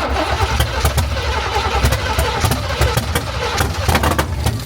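A car engine running loudly with a deep low rumble, broken by many irregular sharp cracks; it cuts in suddenly and stops abruptly.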